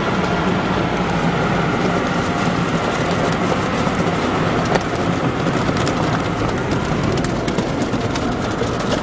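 Automatic car wash side brushes spinning against a car's body with water spray: a steady loud rushing rumble with scattered ticks and slaps.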